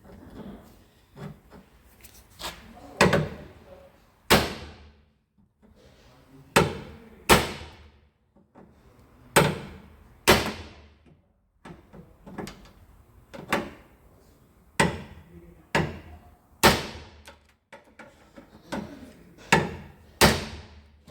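Hammer blows on the crash-damaged rear body metal of a Nissan R31 Skyline: a dozen or so irregular, sharp strikes a second or more apart, each ringing briefly, with lighter taps between them, knocking the panel edge back into shape.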